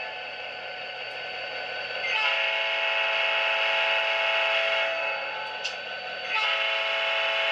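Diesel locomotive horn from the QSI Quantum sound decoder in an Atlas HO-scale GP39-2 model, played through the model's small speaker. It is one of the alternate horns selected with F11. Two long blasts, the first starting about two seconds in and the second near the end.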